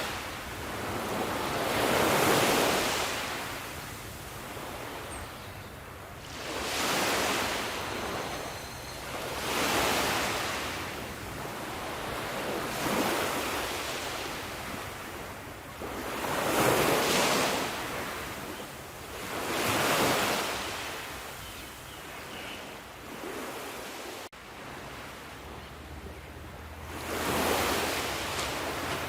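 Sea waves breaking on a shore: a rushing surf hiss that swells and falls away about every three to four seconds.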